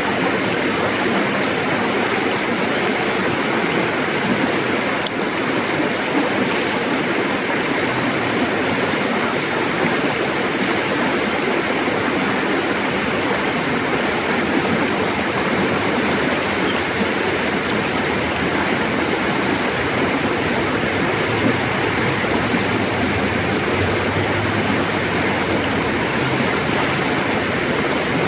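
A river flowing and rushing over rocks, a steady even sound with no break.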